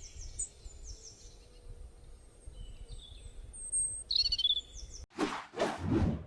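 Small birds chirping: short, high, repeated falling calls over a faint background hiss. About five seconds in, two short bursts of rushing noise come in louder than the birds.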